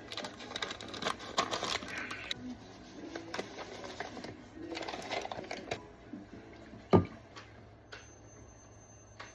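Instant potato flakes and hot water being poured and stirred in a baking dish: two spells of rustling and scraping, then a single sharp knock about seven seconds in.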